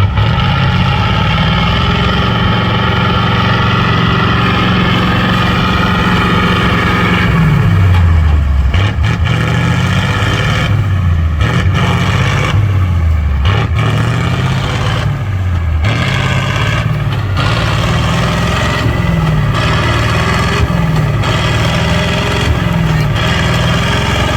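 Off-road trial truck's engine held at high revs, then revving down and up again and again from about seven seconds in, as the truck works the throttle through an obstacle.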